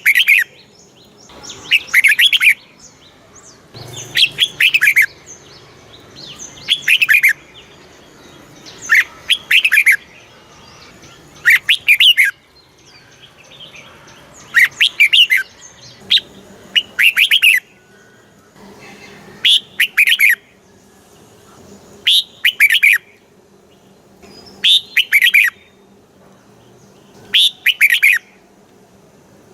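Red-whiskered bulbul singing: about a dozen short, bright phrases of several quick falling whistled notes, one every two to three seconds.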